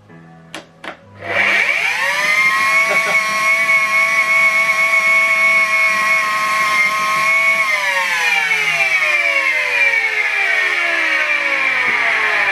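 Two clicks, then a Miele Complete C3 vacuum cleaner's motor spins up to a steady high whine, holds it for several seconds, and is switched off about halfway through, its whine falling steadily in pitch as the motor winds down.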